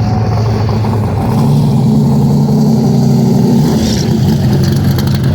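A car engine running loudly close by, its pitch stepping up slightly about a second in and then holding steady.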